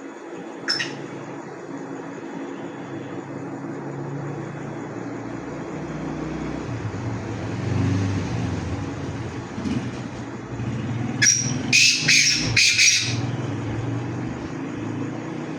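Black francolin calling: a short sharp note about a second in, then a loud harsh phrase of four or five notes lasting about two seconds near the end. A steady low rumble runs underneath.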